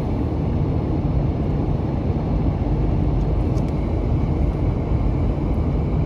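Car driving at steady speed: a continuous low rumble of engine, tyres and wind, heard from inside the cabin.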